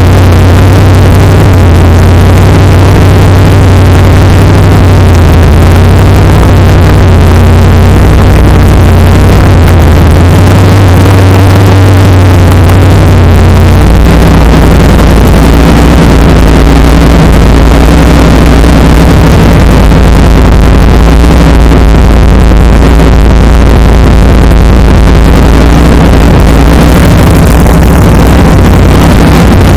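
Swapped-in LS1 5.7-litre V8 idling loudly after a cold start. Its idle pitch steps down about halfway through, as the fast cold idle settles.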